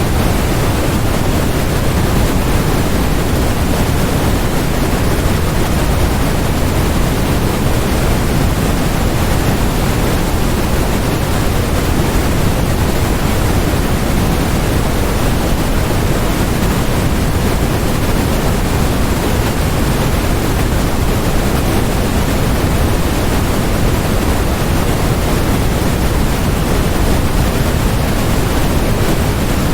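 Continuous generated noise sold as white noise: a steady, even rush that never changes, with more weight in the low end than in the high hiss.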